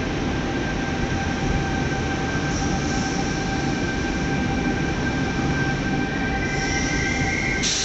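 Sydney Trains C-set double-deck electric train running past along the platform: a steady rumble of wheels on rail with a thin steady whine, and high wheel squeals about three seconds in and again near the end, where a short sharp clank sounds.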